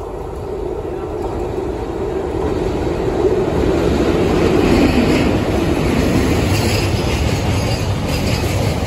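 Electric locomotive hauling a long freight train of covered goods wagons, approaching and passing close by. The sound grows louder until the locomotive goes past about four to five seconds in, then the wagons' wheels rumble and clatter steadily over the rails.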